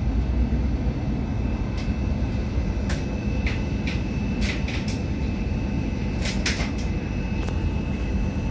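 IZBAN electric commuter train running at speed, heard from inside the carriage: a steady low rumble of wheels on the track with a faint constant whine, and a few short clicks and rattles in the middle.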